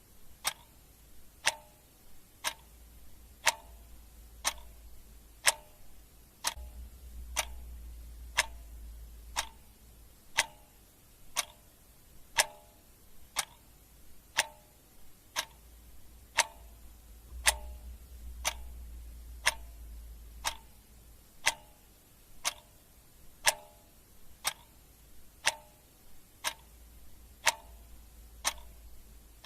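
Clock ticking steadily, one sharp tick about every second, with a faint low hum underneath.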